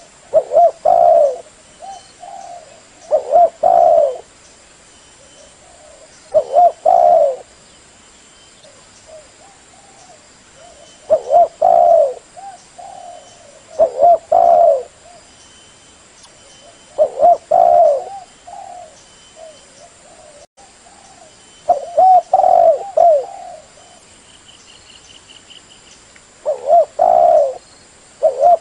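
Spotted dove (tekukur) cooing: short phrases of a few low, hollow coo notes, repeated about every three to five seconds.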